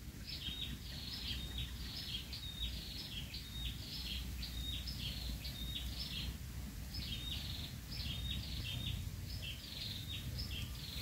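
A bird calling over and over in short high chirps, two to three a second, with a brief pause about halfway, over a steady low rumble.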